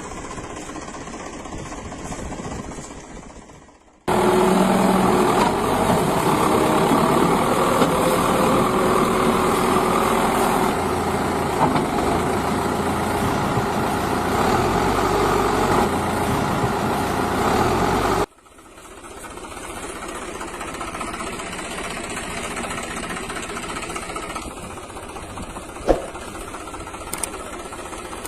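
Small motors running steadily, heard in three sections joined by abrupt cuts: the middle stretch, from about four to eighteen seconds in, is much louder. There is a single sharp click near the end.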